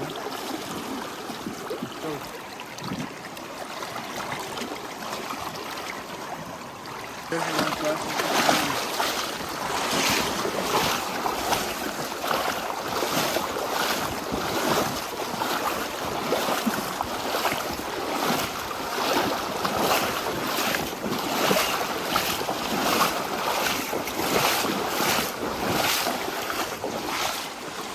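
Wading through knee-deep flowing river water over a steady rush of the current. From about seven seconds in it gets louder, with a rhythmic splash about one and a half times a second as the legs push through the water.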